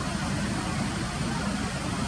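Steady low rumble with a hiss over it, even throughout, with no bird calls standing out.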